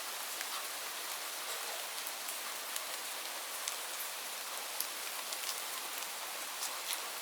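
Steady rain falling, a continuous hiss with scattered separate drops ticking.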